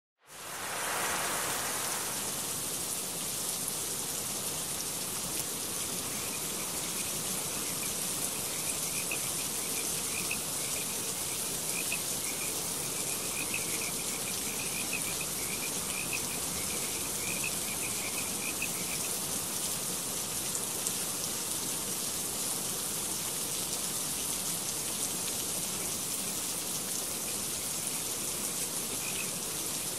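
Water running steadily through a rainforest paludarium's flowing-water setup, a continuous rush like rain. Small repeated chirping calls sound over it from about six seconds in to about nineteen seconds, and again near the end.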